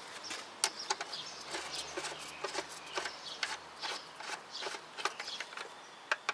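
Irregular light clicks and taps of bolts and hand tools while a car's starter motor is being bolted back into place.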